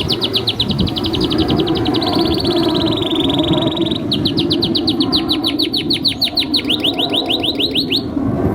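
Domestic canary singing long rolling trills: runs of fast, evenly repeated high notes, the rhythm changing about halfway and the song breaking off just before the end. Underneath lies a steady low noisy background.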